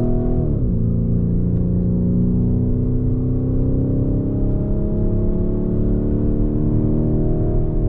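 Lamborghini Urus's twin-turbo V8 pulling under way: its note drops sharply about half a second in, as at a gear change, then climbs slowly as the SUV gathers speed, easing a little near the end, with road rumble underneath.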